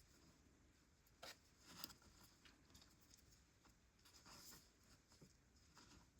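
Near silence with faint rustles and a few light clicks of yarn and a small crocheted piece being handled while the yarn ends are tied.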